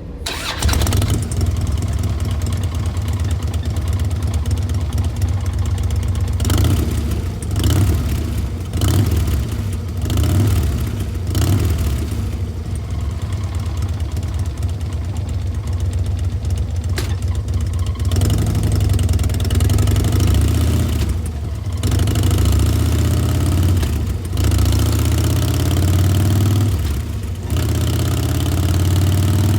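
2007 Harley-Davidson Dyna Low Rider's Twin Cam 96 V-twin running through Chrome Works 3-inch slip-on mufflers, a deep loping idle. The throttle is blipped several times, each rev swelling and falling back to idle.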